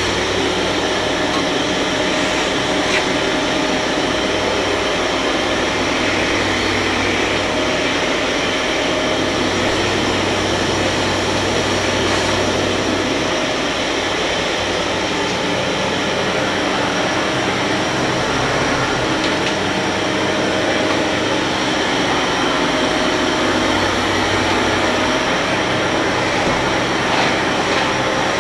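Kärcher MV 6 P Premium wet-and-dry vacuum cleaner running steadily with a continuous rushing motor noise. A low hum underneath fades in and out a few times.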